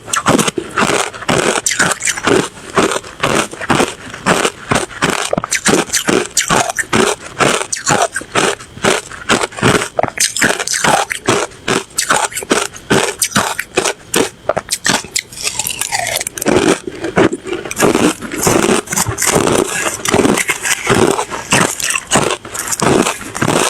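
Someone chewing ice: a steady run of loud crunches, a few a second.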